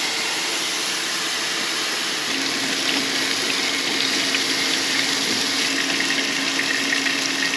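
Meatballs sizzling as they brown in a hot pan on an induction cooktop: a steady hiss with small crackles. A steady low hum joins about two seconds in.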